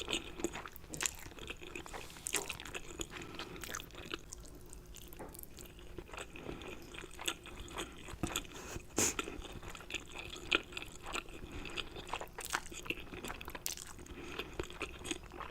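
A person eating close to a sensitive ASMR microphone: irregular chewing with many sharp wet mouth clicks and smacks, a few louder ones standing out.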